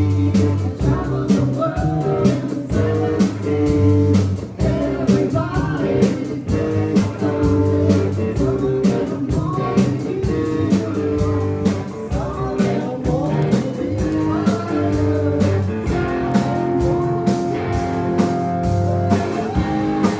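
Live band playing a rock tune, a guitar carrying a bending melody over bass and drums, with no words sung.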